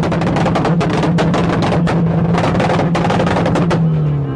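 Car engine revved up and held at its rev limiter, the pitch pinned flat with a rapid crackling stutter, then dropping back near the end. Background music with a beat plays under it.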